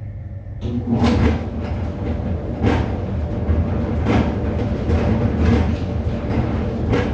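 Laundry machine running with its drum turning: a steady rumble with a knock or swish about every one and a half seconds as the load tumbles. It starts suddenly about a second in.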